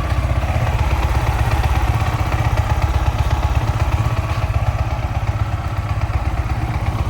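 Yamaha R15 V4's 155 cc single-cylinder engine idling steadily, with a fast even beat and a light rattle that the mechanic puts down to the clutch bell and expects to settle after about ten minutes of running.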